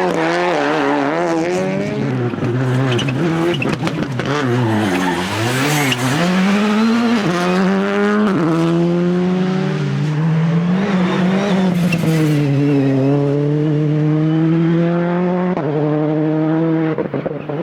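Rally car engine under hard driving: the revs drop steeply as it slows for a corner, then climb and fall back in sharp steps as it upshifts under acceleration, with a third upshift near the end.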